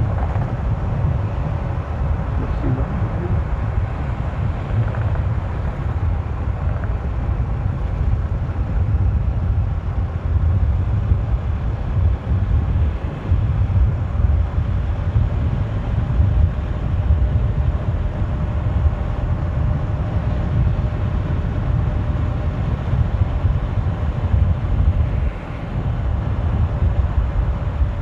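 Honda CBR150R motorcycle ridden at steady high speed, its engine held at high revs as a faint steady tone under heavy wind buffeting on the rider's microphone.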